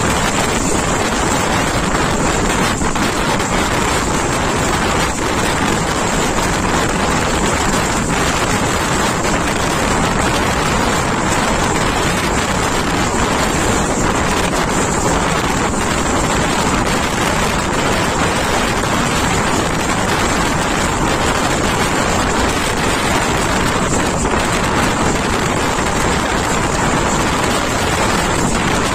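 Wind rushing over the microphone on top of the steady running noise of a moving passenger train, heard out of an open coach door or window.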